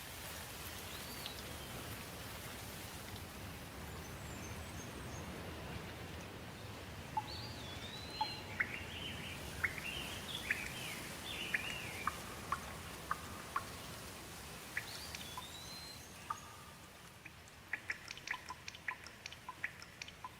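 Steady rain falling while birds sing over it: a few rising whistled calls and, in the middle, a quick run of varied chirps. Near the end, a scatter of short sharp ticks.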